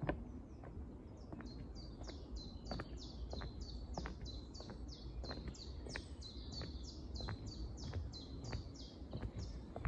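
A songbird repeating short, high, down-slurred chirps about three times a second in a long unbroken run that starts about a second in, with scattered soft knocks beneath.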